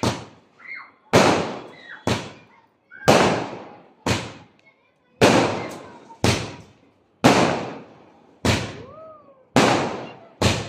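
Diwali firecrackers going off one after another, about a dozen sharp bangs roughly a second apart at uneven spacing, each trailing off in an echo.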